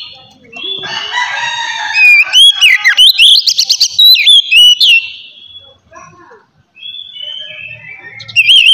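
Oriental magpie-robin (kacer) singing. A harsh, rasping phrase is followed by loud whistled phrases full of quick trills and sliding notes. After a short lull with a few soft notes, the song starts again near the end.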